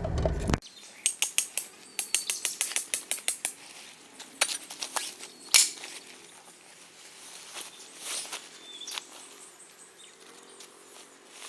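Campfire crackling: burning wood giving off quick irregular pops and snaps, a rapid run of them early on, one loud pop about halfway, then sparser crackles. A louder low sound cuts off abruptly just after the start.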